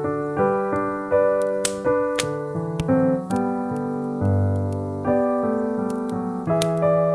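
Slow piano music, chords and melody notes struck and left to ring, with a few faint sharp clicks over it.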